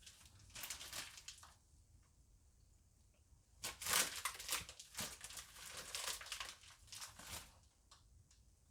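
A plastic bag crinkling as it is squeezed to pipe filling into manicotti shells. It comes in two spells: a short one near the start, then a longer, louder one from about three and a half seconds in.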